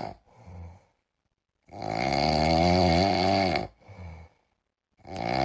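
Snoring from a sleeping pet: one long, rasping snore of about two seconds, a short faint breath after it, and the next snore starting near the end.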